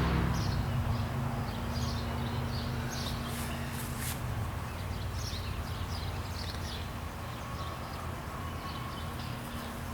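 Outdoor ambience of small birds chirping in short, high calls scattered throughout, over a steady low hum and a low rumble.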